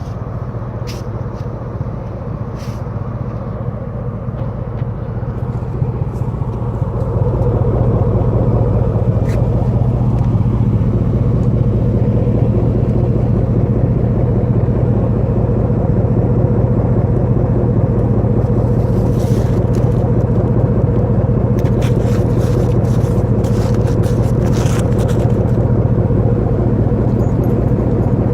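Straight-piped exhaust of a 2008 Chevrolet Silverado with no muffler, the engine running at a steady low drone. It gets louder about seven seconds in and then holds steady.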